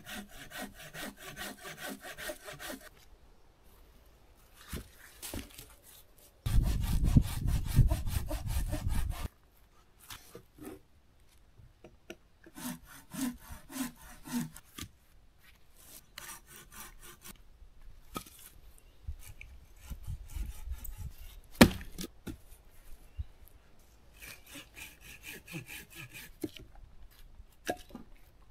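Sawing wood in four bursts of quick back-and-forth strokes, with pauses between them; the second burst is the loudest. A single sharp knock comes about two-thirds of the way through.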